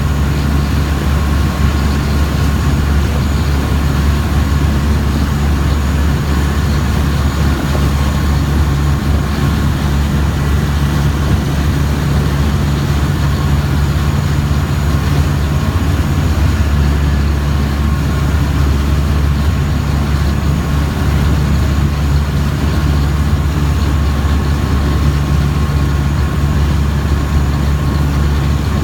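River boat's engine running steadily on board, a loud low drone with a constant hum above it.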